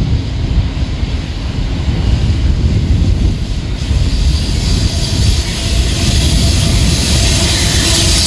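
Grain train led by a Union Pacific diesel locomotive rolling past: a heavy steady rumble, with the hiss of steel wheels on rail growing louder and brighter from about halfway through.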